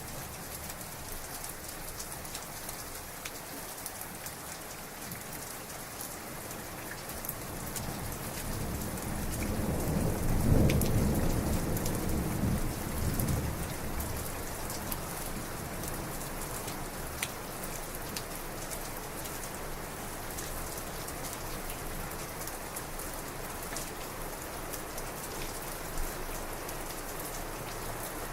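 Heavy rain falling steadily, with scattered close drops ticking. A low roll of thunder builds about a third of the way in, peaks, and rumbles away over several seconds.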